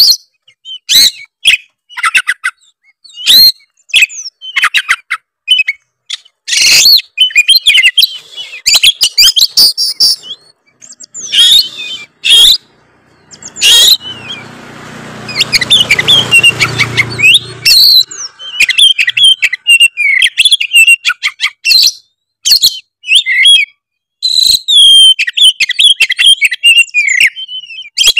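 Oriental magpie-robin (kacer tretes) singing hard in rapid, loud, varied short phrases with mimicked calls worked in. For a few seconds about halfway through, a low hum runs under the song.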